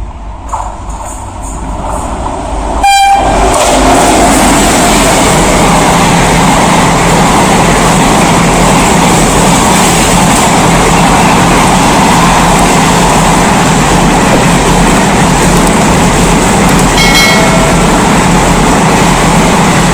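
WAP-7 electric locomotive sounding a short horn blast about three seconds in as it reaches the microphone, followed by the loud, steady rush of a long express train passing at speed, with another brief horn blast near the end.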